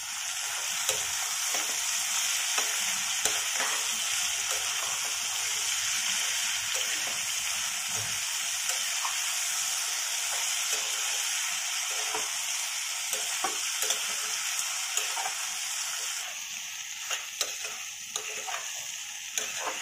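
Chopped vegetables (cauliflower, ivy gourd, potato, peas and fresh tomato) sizzling in a hot oil-and-ghee mix as they are sautéed and stirred, with the spoon scraping and tapping against the pan now and then. The sizzle eases a little near the end.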